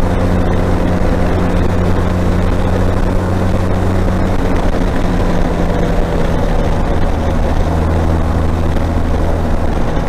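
Motorcycle engine running steadily at highway cruising speed, with wind and road noise. The engine note dips slightly partway through.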